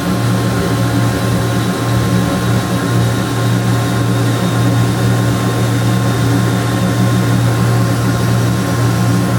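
Drill running steadily, boring a screw hole straight into a small piece of wood, with a thin high whine over a steady low machine hum; the whine fades near the end.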